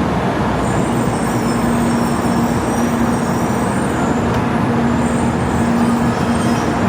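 Shinkansen train noise at the platform: a steady, loud rumble with a constant low hum and a faint high whine over it.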